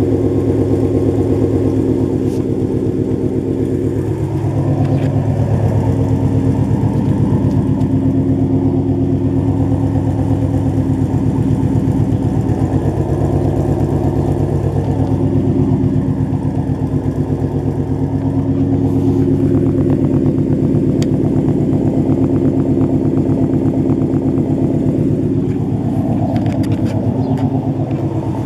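2015 Ford Mustang GT's 5.0 L Coyote V8 idling steadily through Stainless Works headers and exhaust run without catalytic converters, a deep, even exhaust note with a fast pulse.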